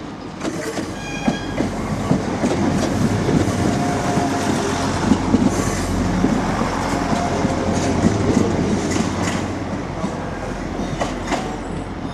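Arriva Trains Wales Class 175 diesel multiple unit running close past along the platform: a loud engine and wheel rumble, building about a second in, with wheels clicking over rail joints, a brief high squeal about a second in and a cluster of clicks near the end.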